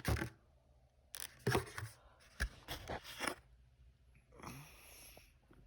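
A cardboard product box being handled: several short taps and scrapes, then a brief rustle about four and a half seconds in.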